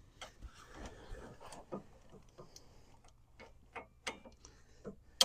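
Scattered light clicks and taps of metal hand tools being handled, irregular and unhurried, with a sharper click near the end.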